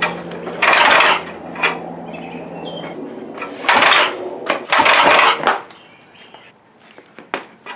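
A Gravely engine being cranked on a first start attempt after about fifty years, sputtering in three loud, short bursts while a steady hum runs for the first three seconds.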